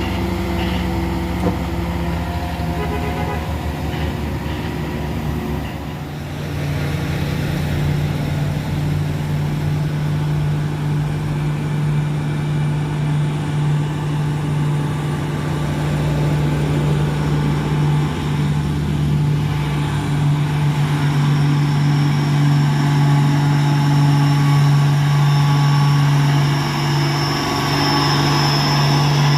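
Heavy truck engine running steadily, growing louder from about six seconds in.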